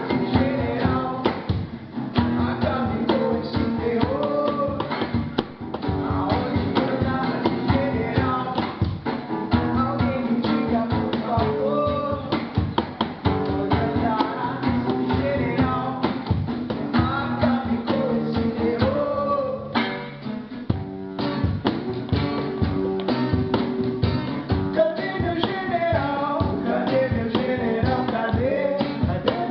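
A band playing a rock song with guitar, tambourine and singing, with a brief drop in loudness about two-thirds through.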